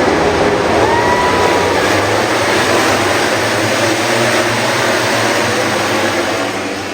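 MotoGP racing motorcycle engines running at high revs at trackside, a loud, dense noise with a brief rising pitch about a second in, easing off near the end.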